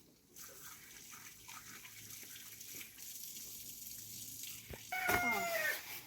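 Water running or pouring in a steady hiss. About five seconds in, a loud, short, high cry or squeal glides downward for about a second.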